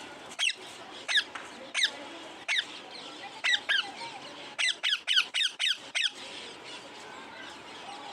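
A parrot giving a series of short, sharp squawks, each dropping in pitch, about a dozen in all, quickening into a rapid run of five or six before stopping about six seconds in.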